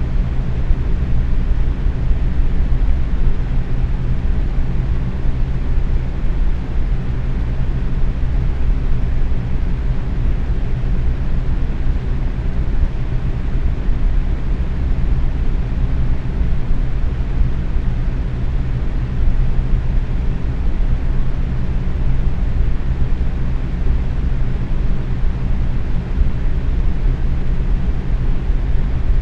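Box fan running steadily at medium speed: an even whoosh of moving air with a low motor hum underneath.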